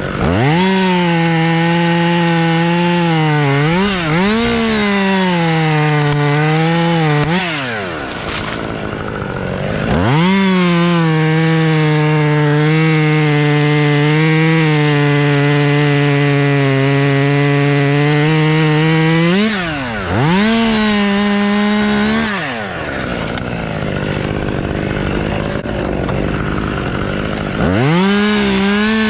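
Chainsaw cutting wood: it revs to full throttle in long runs, its pitch sagging a little while held, with drops to a lower idle between. The revs rise again near the end.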